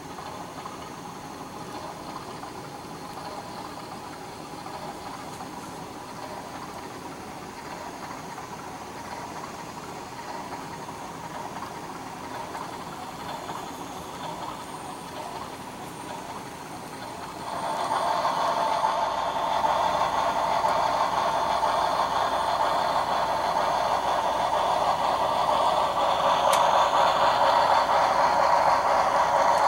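HO-scale model Shay locomotive running, its LokSound 5 sound decoder playing geared steam-engine sounds through the model's small speaker along with the whir of its drive gears. The sound steps up sharply in loudness a little past halfway and stays louder.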